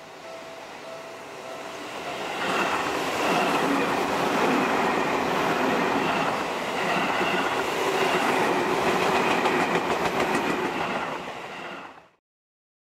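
Seibu 20000 series electric commuter train passing at speed, wheels clattering rhythmically over the rail joints. It opens with a faint repeating tone, grows loud about two seconds in, and stays loud until it cuts off suddenly near the end.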